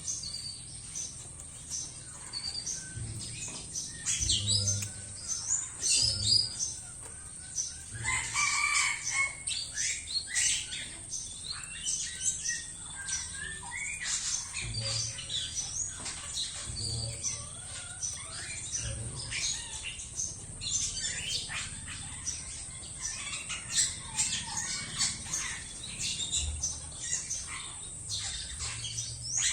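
Birds chirping in many short, scattered chirps, mixed with brief clicks and taps.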